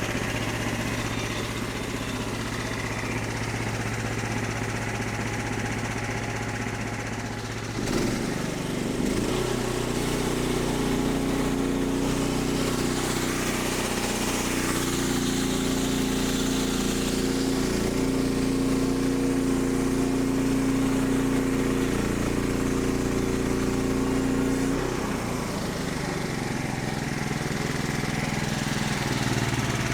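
Small gasoline engine of a portable bandsaw sawmill running steadily. About eight seconds in it speeds up and holds a higher, steady pitch for roughly seventeen seconds, which fits the blade making a pass through the log. It drops back near the end.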